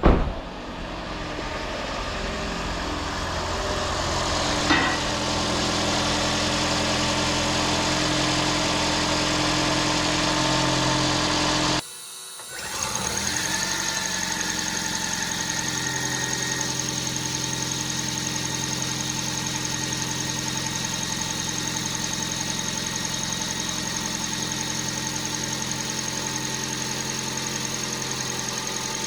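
Toyota Aqua hybrid's 1.5-litre four-cylinder petrol engine starting up and running steadily. About twelve seconds in, the sound cuts out for half a second and then carries on running steadily.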